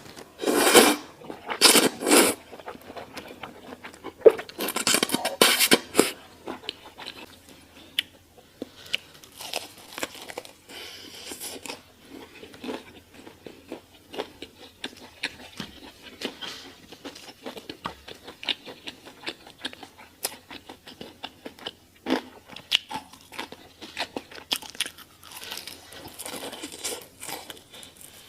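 Close-miked eating of crunchy food: two loud bursts of crunching bites near the start, another around five seconds in, and a softer one near the end. Between them come steady chewing and small wet clicks.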